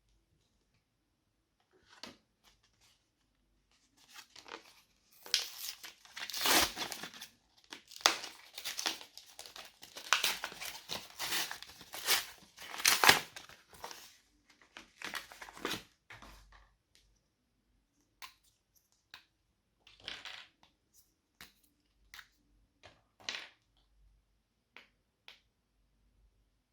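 Slime being worked by hand, giving irregular crackling, popping and tearing sounds. They come thick and fast for several seconds, then thin out to scattered single pops.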